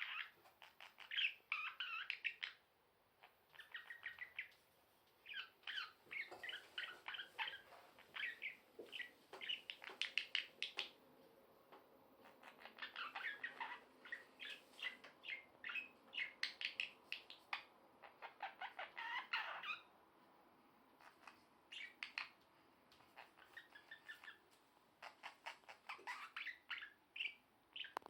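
Budgerigar singing: a long run of rapid chattering chirps and warbles in phrases a second or two long, broken by short pauses.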